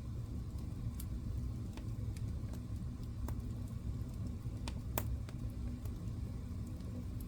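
Wood fire in a fireplace crackling: sharp, irregular pops a second or so apart, the loudest about five seconds in, over a steady low rumble.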